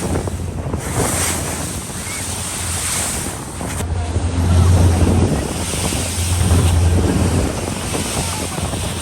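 Wind buffeting the microphone over rushing sea water, with a steady low drone from a boat's engines underneath; the wind noise swells and eases in gusts.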